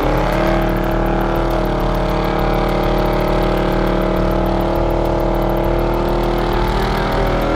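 A car engine running steadily at a held, nearly constant pitch.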